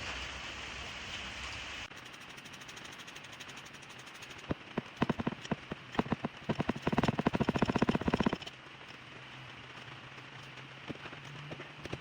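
Tool work on a car's brakes: scattered sharp clicks that speed up into a fast rattle lasting about a second and a half, then stop abruptly, over a low steady hum.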